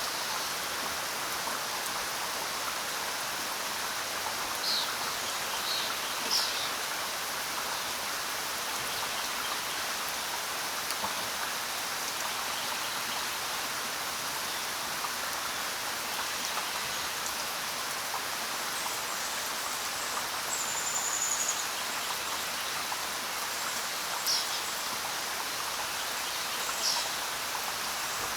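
Steady rain falling, an even hiss of drops throughout. A few short, high bird chirps come through it: a cluster about five to six seconds in, a brief whistle near the middle, and two more chirps near the end.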